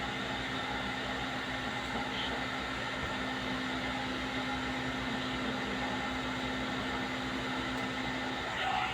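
One-step hair dryer and styler (hot-air brush) running steadily: a motor hum with a rush of blown air, the hum dropping out a little before the end.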